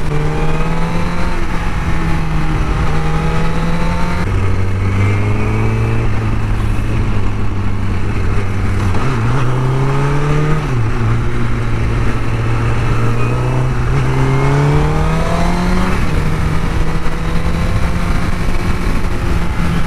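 Honda CBR1000RR Fireblade's inline-four engine running through its stock exhaust at a steady engine speed. The pitch drops about four seconds in, rises briefly near the middle, and climbs back up about three-quarters of the way through.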